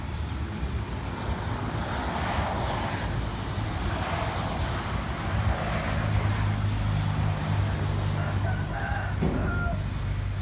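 A car engine runs with a steady low hum. Several harsh, drawn-out calls of about a second each rise over it, and a few short pitched notes come near the end.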